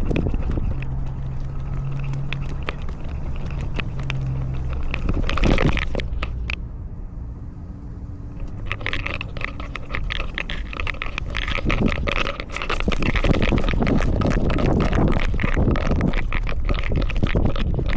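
Rubbing, scraping and crackling from a collar-mounted camera as a cat walks. There is a short louder burst about five and a half seconds in, and dense crackling and ticking from about halfway through.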